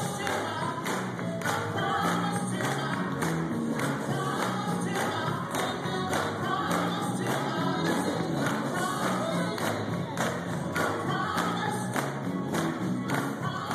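Gospel music: a choir singing over a steady percussion beat and a bass line.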